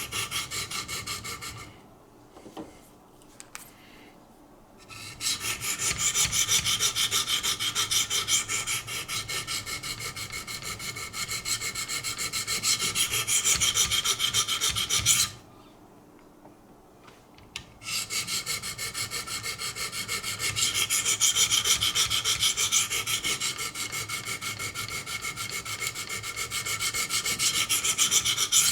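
Diamond stones of a Wicked Edge guided sharpening system scraping back and forth along the hard D2 steel blade of a Kershaw Cryo, in quick even strokes. The strokes stop for a few seconds about two seconds in, and again about halfway through, then carry on.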